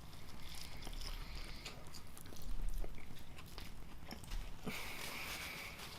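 Close-miked chewing of a burger: soft wet mouth sounds with many small clicks, a little louder about two and a half seconds in.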